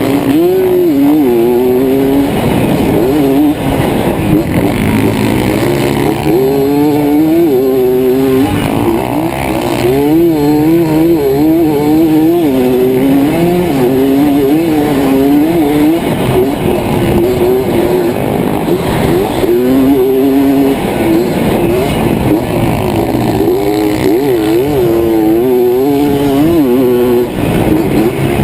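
Dirt bike engine revving hard as it is ridden, the pitch climbing and dropping again and again with each burst of throttle and gear change.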